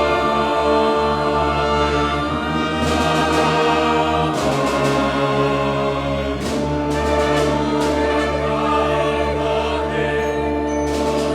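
Orchestra and choir performing, holding long sustained chords, with a few sharp accents.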